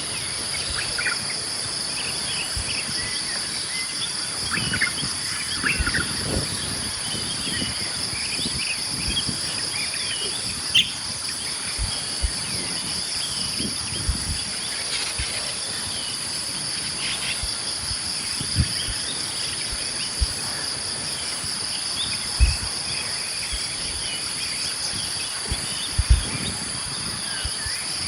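Steady, high-pitched insect chorus of crickets or similar insects, ringing unbroken on two pitches, with scattered short bird chirps over it. A few brief low thumps stand out now and then.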